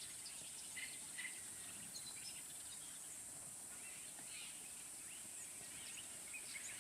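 Faint natural ambience: a steady high-pitched insect drone, with scattered short bird chirps over it.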